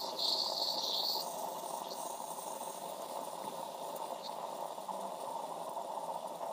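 Tassimo Fidelia pod coffee machine brewing: a steady pump hum with hot liquid running through the pod into the cup. A high hiss stops about a second in.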